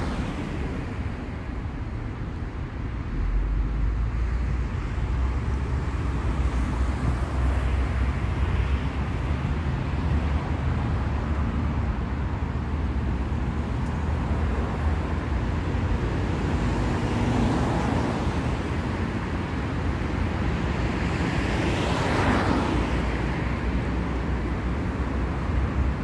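City street traffic noise: a steady low rumble of vehicles, with a couple of cars passing close by, the louder one about three quarters of the way through.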